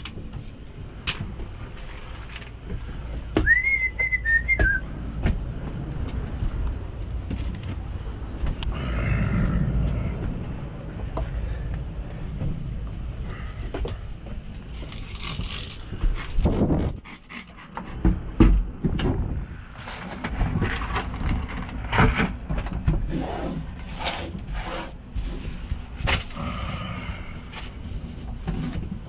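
Clutter being handled and a tabletop being scraped and rubbed: scattered clicks, knocks and scraping, with a brief high whistle about four seconds in.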